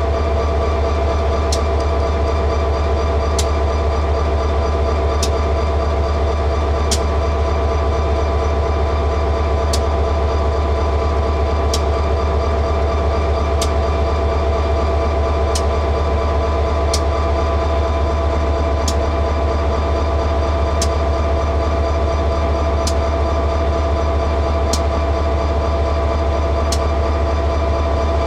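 Freight train running steadily: a constant heavy low rumble with steady tones above it, and a sharp tick about every two seconds.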